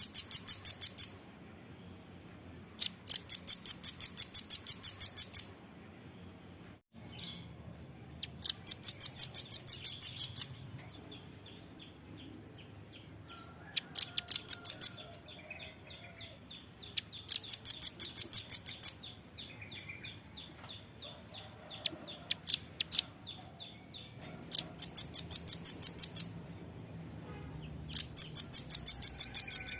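Velvet-fronted nuthatch calling: runs of rapid, very high chips, about five or six a second, each run lasting one to two and a half seconds and coming again every few seconds, with fainter quick ticking in between.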